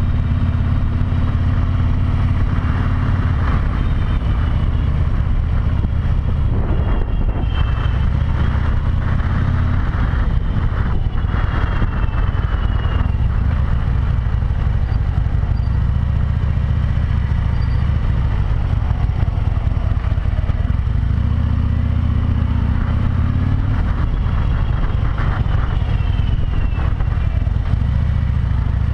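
Harley-Davidson V-twin motorcycle engine running steadily under way, heard from a helmet-mounted camera with steady wind rush over it.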